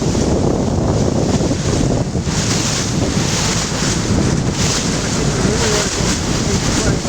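Wind buffeting the microphone on a moving boat, over the rush of water along the hull. The hiss grows brighter about two seconds in.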